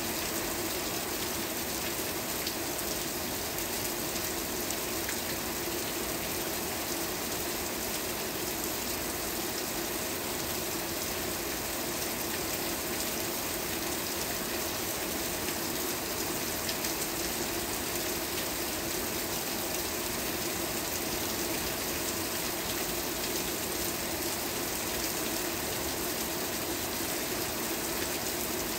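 Steady rain falling: an even, continuous hiss with fine scattered drop taps, unchanging throughout.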